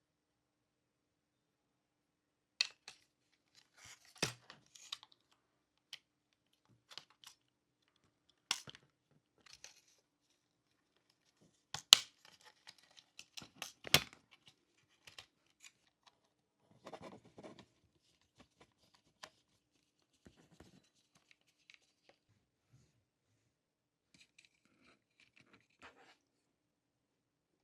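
Small plastic and metal parts of a 1:18 scale model car being handled: scattered light clicks, taps and short scraping rustles with pauses between, the sharpest clicks about twelve and fourteen seconds in.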